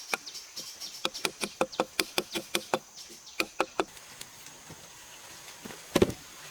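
A quick series of sharp knocking strikes, about five a second, that stops a little before four seconds in, followed by one heavier thud near the end. A steady high insect hum runs underneath.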